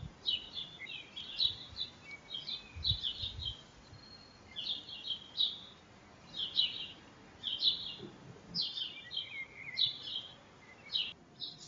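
A bird chirping: short, high chirps in quick clusters, repeating about once a second.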